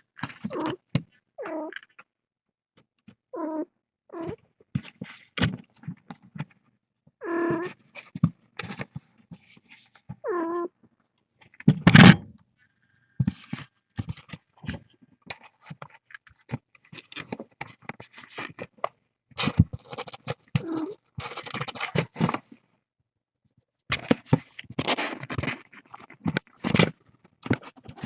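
Kittens play-fighting: a few short, high kitten mews in the first half, amid scrabbling and scratching of paws on bedding, with one loud thump about twelve seconds in.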